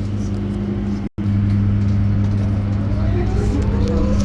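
Electric bus heard from inside the cabin: a steady low electrical hum, then from about three seconds in the traction motor's whine rising in pitch as the bus pulls away. The sound cuts out for an instant about a second in.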